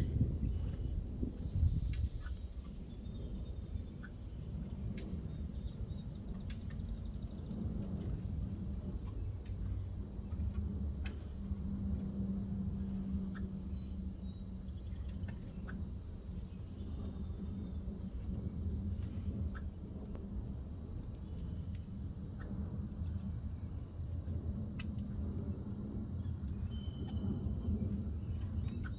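Outdoor ambience at a backyard bird feeder: a steady low rumble and a constant high-pitched hum, with scattered short bird chirps and small clicks.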